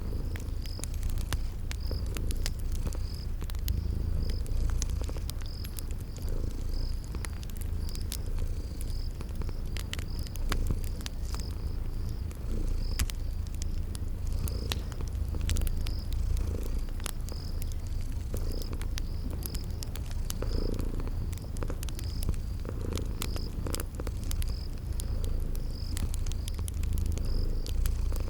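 Cat purring as a steady low rumble, layered with a fire crackling in scattered sharp pops and a cricket chirping steadily at about two chirps a second.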